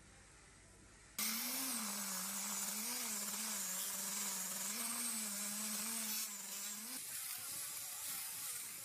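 A power tool starts abruptly about a second in and runs steadily, a motor hum with a wide hiss whose pitch rises and falls a little every second or two; it eases off about seven seconds in.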